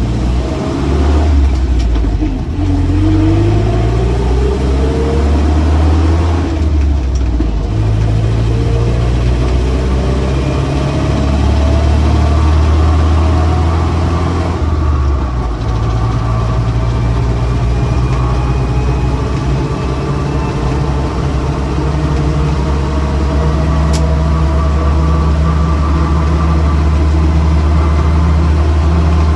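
Land Rover Series 3 Lightweight's 2.25-litre four-cylinder petrol engine pulling away and accelerating through the gears, heard inside the unsoundproofed cab with road noise from military tyres. The engine note climbs and drops at gear changes about two, seven and fifteen seconds in, then holds steady at cruising speed with a faint rising whine.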